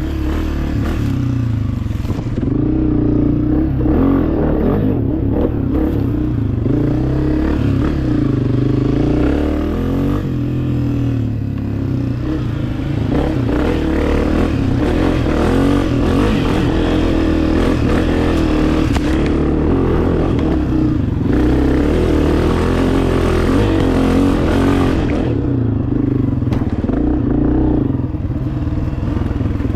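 Two-stroke dirt bike engine under a rider's throttle: the revs rise and fall again and again, with several brief drops where the throttle is rolled off between pulls.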